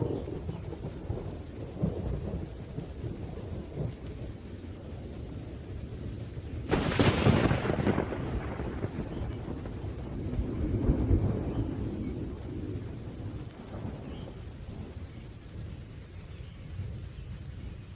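Thunderstorm: steady rain with continuous low rumbling thunder. A sharp, loud thunderclap breaks about seven seconds in and fades out over a second or two, and a softer roll of thunder swells up around eleven seconds.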